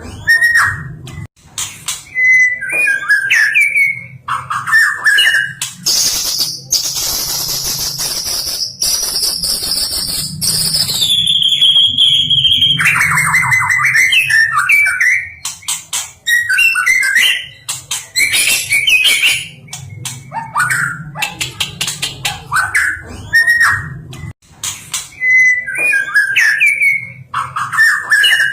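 White-rumped shama (murai batu) singing a varied song of clear whistled phrases. In the middle comes a long, high trill that steps down in pitch.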